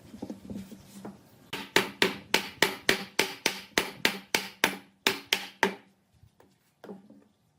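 Hammer striking in a quick, even series of sharp knocks, about four a second for some four seconds, then stopping, with one more knock near the end.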